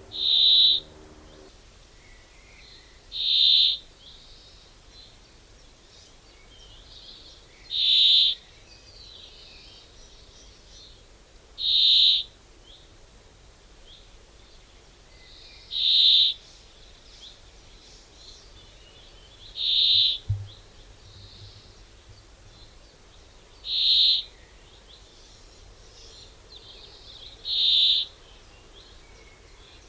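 A wild bird repeating a single short, high whistled note about every four seconds, eight times, with faint chirps from other birds in between. A brief low thump comes about twenty seconds in.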